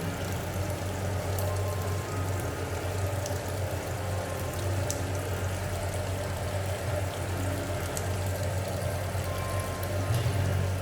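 Tap water running steadily into a kitchen sink, with a continuous low hum under it.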